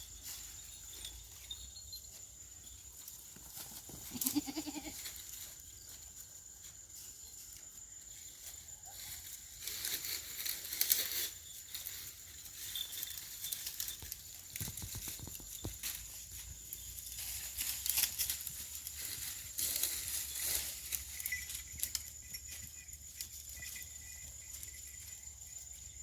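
Goats on a farm, with a short bleat about four seconds in, amid scattered rustling and clicking.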